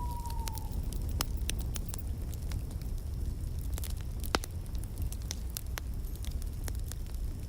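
Wood fire burning in a fireplace: a steady low rumble of flames with irregular crackles and pops, one sharp pop about four seconds in. A thin whistle fades out just after the start.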